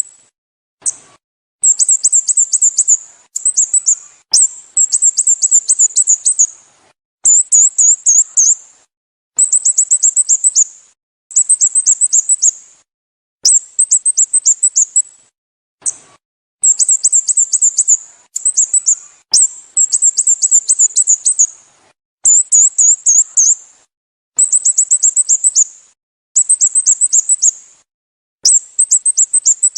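Sooty-headed bulbul calling in bursts of rapid, high-pitched chirps. Each burst lasts a second or two and holds several quick downward notes, and the bursts repeat about every two seconds with short silent gaps between.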